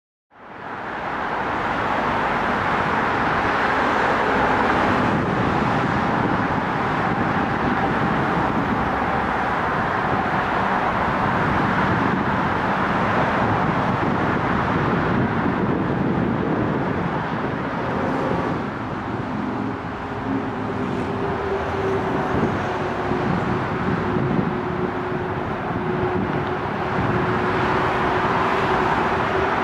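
Seoul Metro Line 2 electric train crossing a railway bridge: a steady rumble of wheels on track that starts abruptly, with a steady whine rising out of it in the last third.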